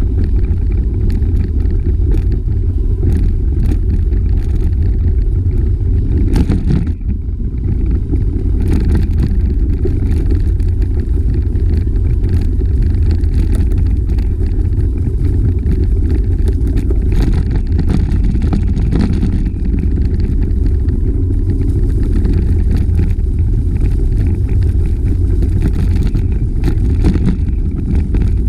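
Loud, steady wind rumble on the microphone of a camera riding along on a bicycle, with scattered clicks and knocks. The rumble eases briefly about seven seconds in.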